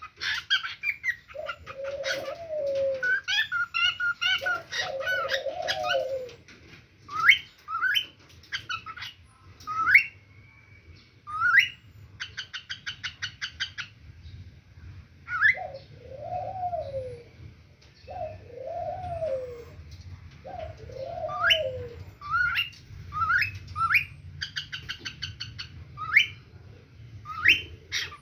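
Pet parrots calling: many short rising whistles, two bursts of rapid chattering, and five lower arched calls of about a second each.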